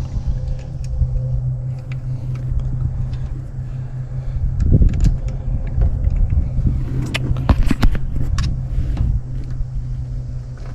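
A steady low hum runs throughout, with scattered clicks and light metal knocks in the middle as a small access cover on the air conditioner is handled and refitted.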